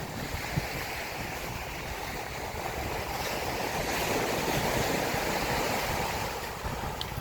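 Mediterranean surf on a sandy beach: a steady wash of waves that swells to its loudest about four to five seconds in and then eases back.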